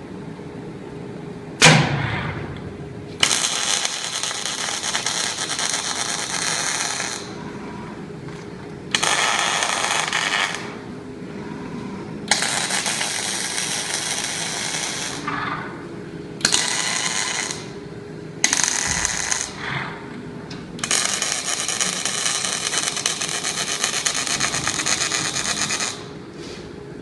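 Robotic arc welder striking a series of welds, each a steady dense crackle lasting one to five seconds, separated by short pauses; a sharp knock just before the first weld and a steady machine hum underneath.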